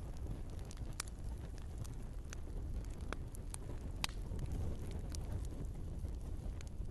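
Log fire burning in a fireplace: a steady low rumble of flames with sharp crackles and pops of burning wood scattered irregularly through, the loudest about four seconds in.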